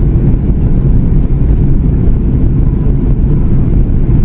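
Steady low roar of airflow and CFM LEAP-1B engines inside the cabin of a Boeing 737 MAX 8-200 in flight, heard from a window seat behind the wing.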